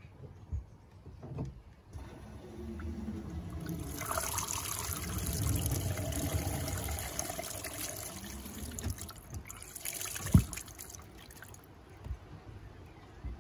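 Water run down a newly fitted washing-machine waste pipe to test it. It starts about two seconds in, grows stronger, then stops shortly before the end. A sharp knock comes about ten seconds in.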